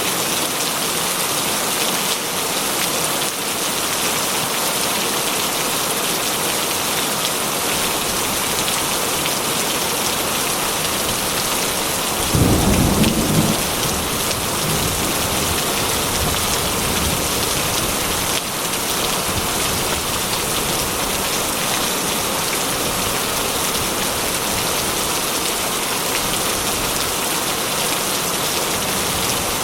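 Heavy rain falling steadily, with a roll of thunder about halfway through: a low rumble lasting a second or two, the loudest sound here.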